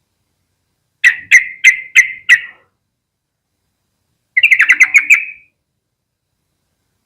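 Yellow-vented bulbul calling: five sharp notes at about three a second, then after a pause a fast chattering run lasting about a second.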